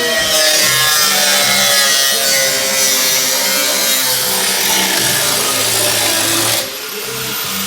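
Power tool cutting through the sheet metal of a BMW E28 quarter panel, a steady noisy cut with a whine in it, stopping abruptly near the end.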